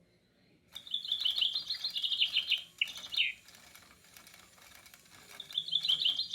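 Pet parrot chattering: a fast string of short, high chirps lasting about two seconds, then quiet, then a second string starting near the end.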